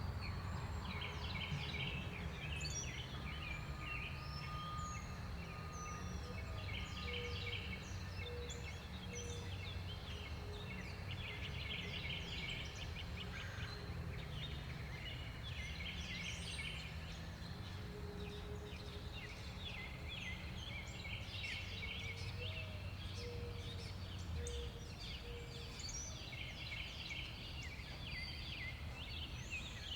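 Backyard songbirds calling: repeated rapid trilled bursts of chatter, each a second or two long, with scattered short chirps, over a steady low rumble.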